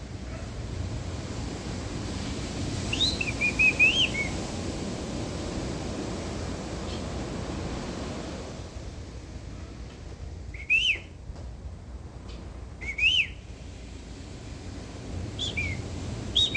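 Bird-like whistled calls, a person imitating birds and birds answering: a quick run of short notes about three seconds in, single loud rising-then-falling whistles about eleven and thirteen seconds in, and a few shorter ones near the end. A steady wash of wind or surf noise lies under them.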